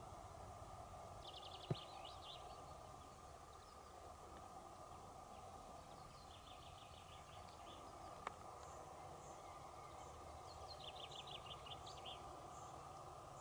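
Faint songbird song: three short bursts of rapid high trills, with quick high chirps in the second half, over a steady quiet background. Two single soft clicks, one about two seconds in and one past the middle.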